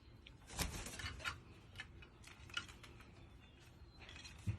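A few light, scattered clicks and rustles from a crow handling a beakful of cashews, the loudest about half a second in.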